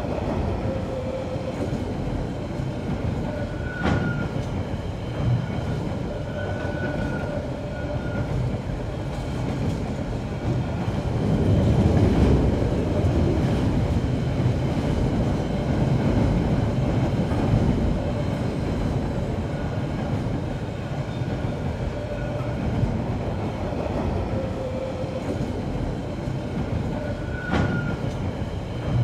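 Goods train of flat wagons rolling past, a steady rumble of wheels on rail that swells for several seconds around the middle. A couple of sharp clicks and faint on-and-off thin tones sound above it.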